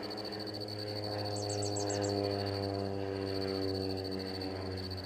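Crop-dusting airplane's engine passing, a steady drone that swells midway and slowly drops in pitch.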